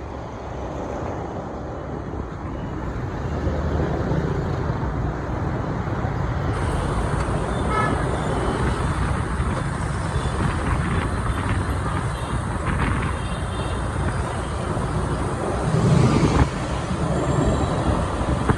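City street traffic and engine rumble heard from a moving motorbike, with a short horn toot about eight seconds in.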